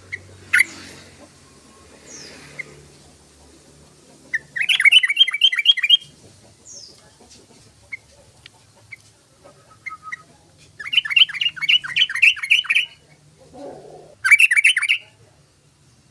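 Yellow-vented bulbul (trucukan) singing. It gives three bursts of fast, bubbling chattering notes: the first two last about two seconds each and the last one is shorter. A few single short notes come between the bursts.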